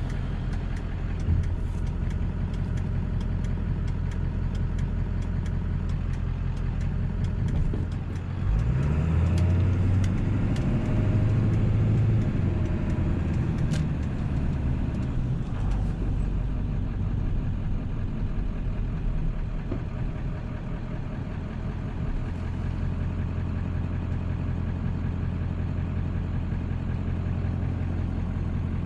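1997 Ford 7.3 L Powerstroke turbo-diesel V8 running on the move. About eight seconds in it pulls harder, and its pitch rises and then falls over several seconds. It then settles into a steady low drone.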